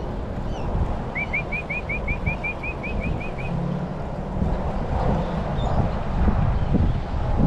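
A small bird calling a quick trill of about a dozen short rising chirps, five or six a second, lasting two seconds or so, over a steady low rumble.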